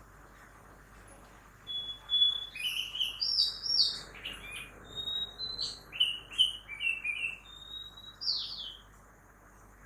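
A songbird singing a varied run of clear whistles and quick chirps that starts about two seconds in and stops near the end. Beneath it is a faint steady hum of early-morning town noise.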